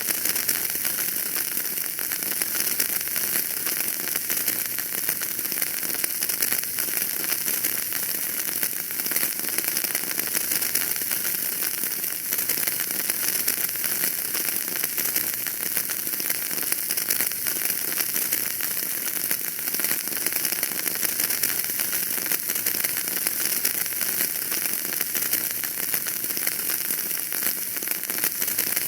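Wood fire in a fireplace crackling: a steady, dense stream of small pops and snaps over a hiss.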